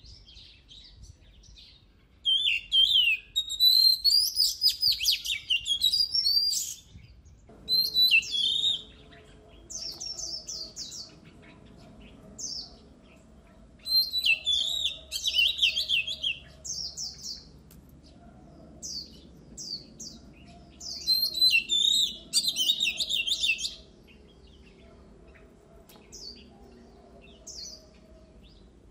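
Oriental magpie-robin singing: loud bursts of rapid, varied whistles and trills, each a second to several seconds long, with short pauses between.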